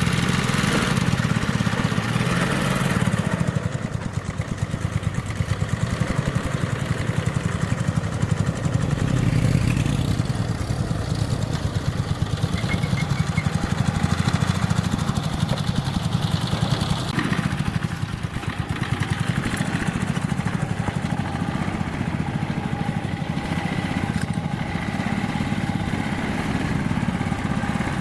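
Small engine running steadily with a fast, even firing beat, dipping slightly in level a few seconds in and again past the middle.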